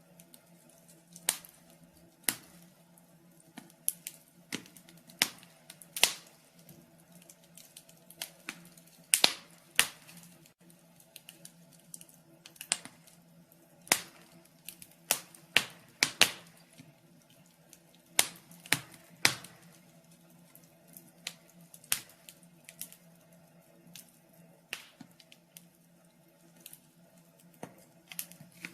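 Wood fire crackling in a fireplace: irregular sharp pops and snaps from the burning logs, some much louder than others, over a faint steady hum.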